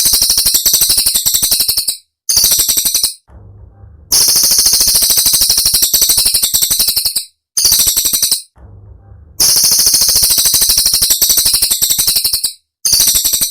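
Cililin songbird singing its rapid, piercing rattling trills, the fast-fire 'tembakan' phrases: six bursts of about one to three seconds, separated by short pauses.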